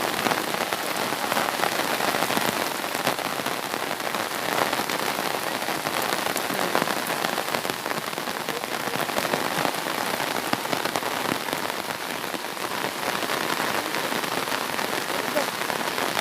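Steady rain: an even hiss full of small drop ticks.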